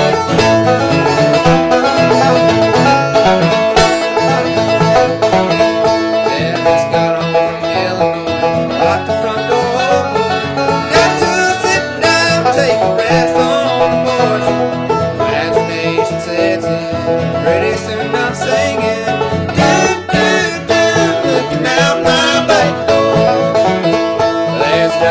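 Banjo and acoustic guitar picking an up-tempo bluegrass-style instrumental tune, played steadily throughout.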